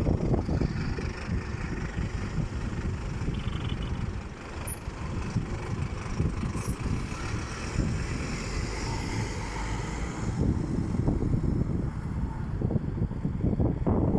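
Scania city bus running, a steady low rumble with a fainter higher whine that fades out about ten seconds in.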